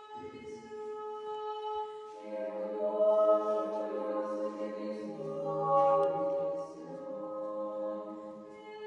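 Nuns' choir singing Orthodox chant a cappella: one voice holds a note, then several voices join in harmony about two seconds in, swelling around the middle.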